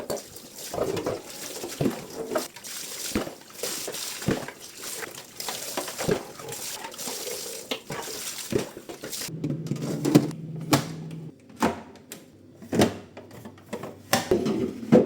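Tap water running into a sink while things are washed, with frequent knocks and clatter of items being handled. The running water stops about nine seconds in, leaving scattered clicks and knocks.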